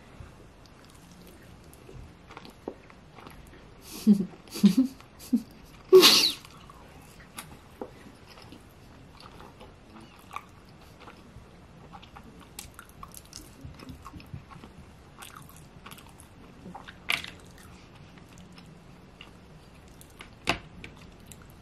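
Close-miked chewing of a sushi roll topped with crunchy tempura flakes: small wet clicks, smacks and light crunches. There are a few louder mouth sounds with a short voiced hum between about four and six seconds in, the loudest near six.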